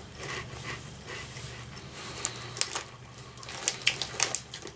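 Someone chewing a mouthful of Chester's Fries Ranch, a puffed corn snack, with scattered crisp crackles that come thicker from about two seconds in.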